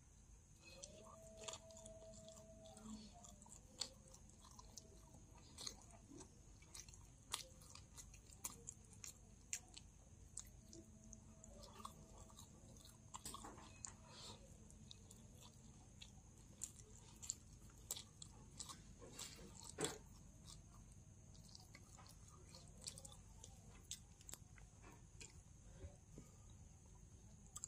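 A person chewing food, quiet and close, with irregular short clicks from the mouth several times a second.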